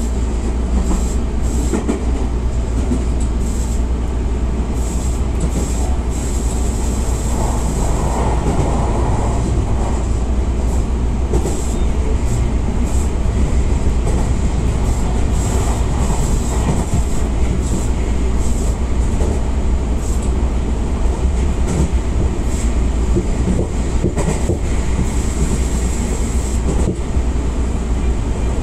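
Tobu Railway 60000 series electric train heard from inside the passenger car as it runs with the doors shut: a steady rumble of wheels on rail, a thin high whine, and scattered clicks of the wheels over rail joints.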